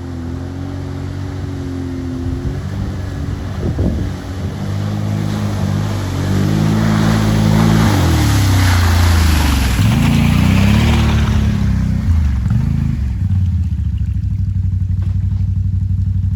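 An ATV engine revving hard through mud, its pitch rising and falling again and again as the throttle is worked. From about six to eleven seconds in a rush of splashing mud and water joins it, and near the end the engine holds a steady high rev.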